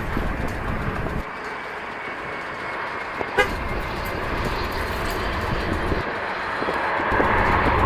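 Jet airliner engine noise with a faint high whine, growing louder near the end, while gusts of wind buffet the microphone in a low rumble that comes and goes.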